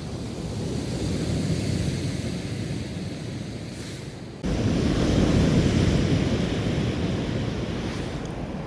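Surf washing on a beach, with wind rumbling on the microphone; the noise swells and fades, then jumps suddenly louder about halfway through.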